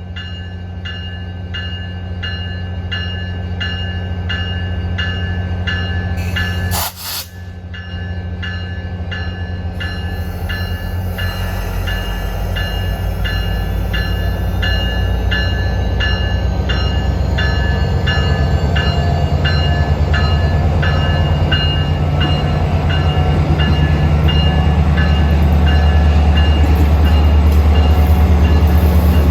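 A bell rings in a steady rhythm, about one and a half strokes a second, over the low rumble of an approaching train. The rumble grows steadily louder and drowns out the bell, with a brief dropout about seven seconds in.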